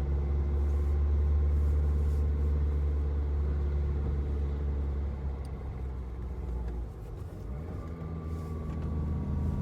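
Car engine and road noise heard from inside the cabin while climbing a mountain pass: a steady low drone that eases off about six seconds in, then picks up again near the end.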